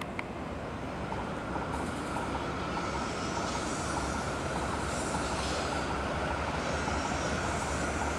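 A Shinkansen bullet train running along an elevated viaduct: a continuous rumble with a steady whine that grows gradually louder, and a rushing hiss that swells and fades.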